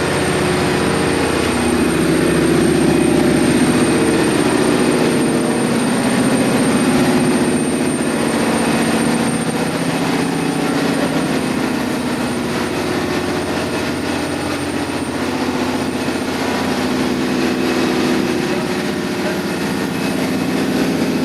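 Loud, steady drone of a ship's engine-room machinery, a deep hum made of several held tones with a thin high whine above it that fades about halfway through.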